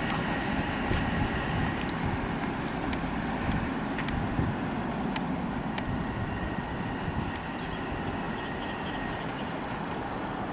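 Long Island Rail Road train rumbling steadily nearby, with scattered sharp clicks and a faint steady high tone over it.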